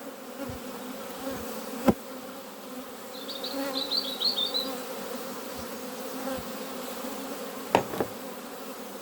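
Honeybees buzzing steadily around an open hive, with two sharp clicks, about two seconds in and near the end. A brief high twittering comes about three seconds in.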